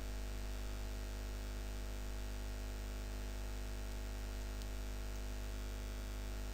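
Steady electrical hum with a low buzz and several steady overtones under a hiss of background noise. One faint click about four and a half seconds in.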